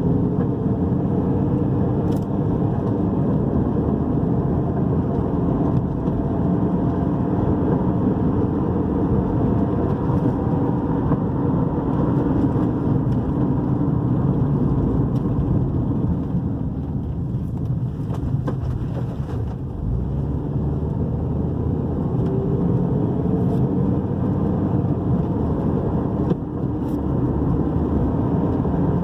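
A 2010 Toyota RAV4 with a 2.4-litre petrol engine being driven on a road test, heard from inside the cabin: steady engine and road noise with the engine pitch rising a couple of times as it accelerates, and a few faint ticks.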